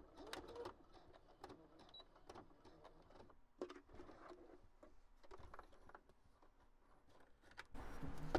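Electric sewing machine winding down and stopping right at the start, its pitch sliding down. After that come scattered faint clicks and rustles of the stitched work being handled.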